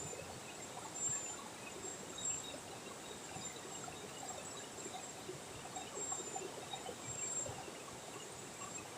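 Night insects chirping in short, high-pitched trills that come and go over a faint, steady background hiss.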